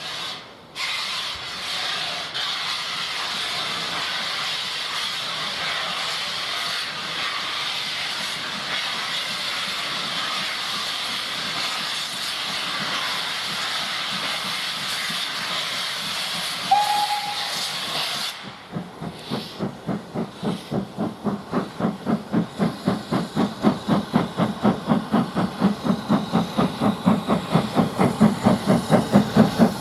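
Steam locomotive hissing steam steadily, then giving a short whistle blast. It then starts away with exhaust chuffs that grow louder and quicker.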